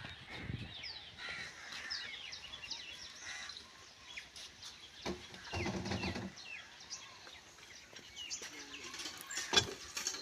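Birds chirping, many short high calls one after another. A louder, lower burst comes a little past halfway, and a sharp click near the end.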